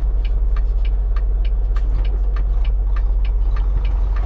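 Semi-truck's diesel engine droning steadily as heard inside the cab while driving, with a regular light ticking about three times a second over it.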